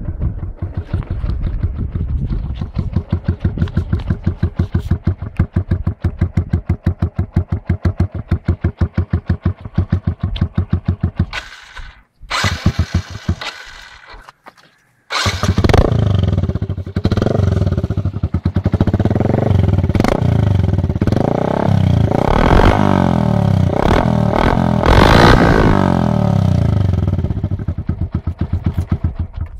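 Yamaha Exciter 135's single-cylinder four-stroke engine through an aftermarket RebelUsa Phoenix R175 SE exhaust, idling with an even, fast-pulsing exhaust note. About halfway through it goes nearly silent for a few seconds, then comes back loud and is revved up and down again and again.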